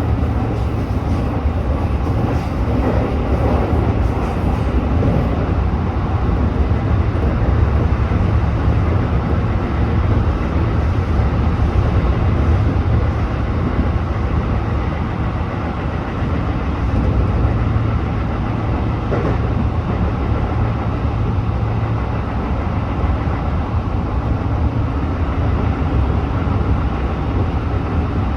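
Tobu 8000 series electric train running between stations, a steady low rumble of wheels and running gear heard from inside the front car.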